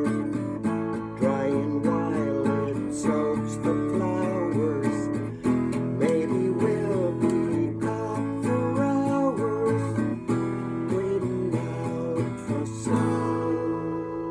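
Acoustic guitar strummed in a steady rhythm, with a wavering melody line over the chords. Near the end a final chord is struck and left to ring out.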